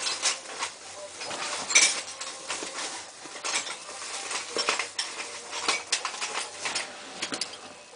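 Irregular metallic clinking and scraping of tools and metal parts being handled, a run of sharp knocks of uneven loudness with the loudest strike about two seconds in.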